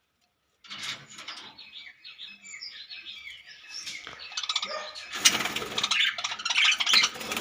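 Several budgerigars chattering and chirping, with many quick overlapping calls. They start just over half a second in and get louder and busier from about five seconds in.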